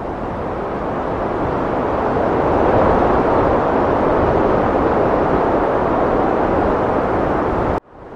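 Heavy wind rushing as a dense, steady noise, swelling to its loudest a few seconds in. Near the end it drops out abruptly, then comes back.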